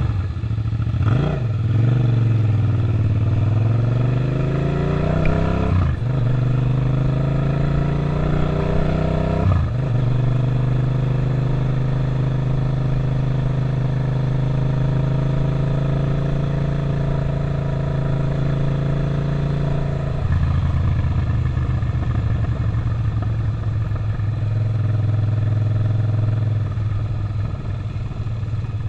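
Suzuki SV650's V-twin engine pulling away and accelerating, its pitch rising through two gear changes about six and nine and a half seconds in, then running at a steady pitch while cruising. About twenty seconds in the pitch drops as the throttle is eased off.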